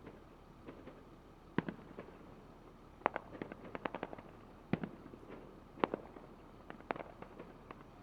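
Fireworks display: irregular sharp bangs and cracks, a quick flurry about three to four seconds in and single loud bangs around five and six seconds in.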